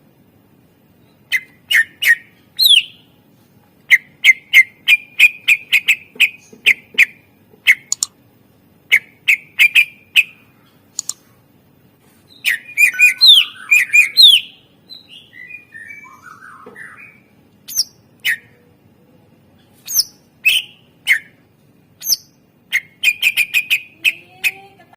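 Cucak ijo (green leafbird) singing: sharp chirps and quick rattling strings of notes with short pauses, and a denser burst of gliding, warbling phrases about halfway through. Its song is filled out with mimicked calls of other birds.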